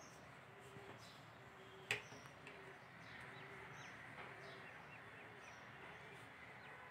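Near-quiet room tone with faint, scattered bird chirps and one sharp click about two seconds in.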